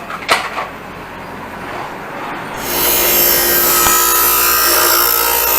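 Powerhouse 8-inch 1/2 hp bench grinder with a brief knock near the start. About two and a half seconds in, a steel chisel tip is pressed to the spinning wheel and a loud, steady grinding hiss with a ringing whine sets in.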